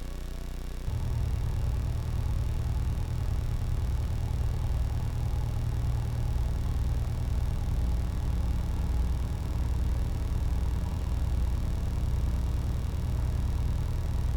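Piper light aircraft's piston engine running at taxi power, a steady low drone that steps up in level about a second in as it is given a little more throttle.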